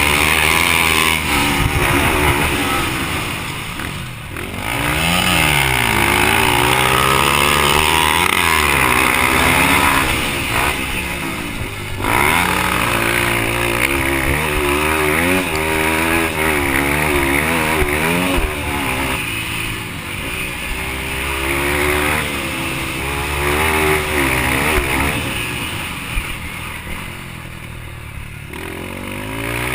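Yamaha TT-R230 single-cylinder four-stroke dirt bike engine racing, its pitch climbing and falling over and over as the throttle is opened and closed through the turns. The engine backs off briefly about four seconds in and again for a few seconds near the end.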